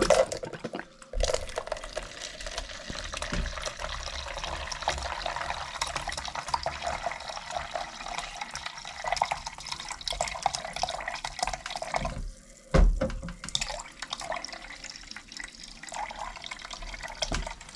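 Liquid gushing from a hand-pulled beer engine into a container as the handle is drawn, in two pulls. A knock sounds at the start of each pull, and steady splashing follows each one.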